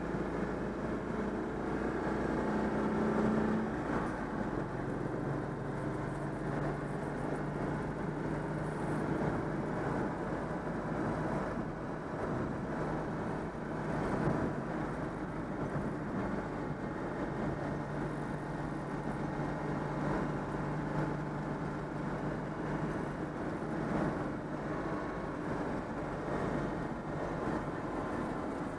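Citroën 2CV's air-cooled flat-twin engine, freshly overhauled, running on a drive. Its pitch climbs in the first few seconds as the car accelerates, then it runs at a steadier speed with occasional changes in engine revs.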